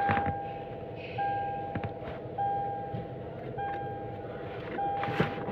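Car warning chime beeping steadily, about five even beeps roughly 1.2 seconds apart, over a low steady hum with a few light clicks.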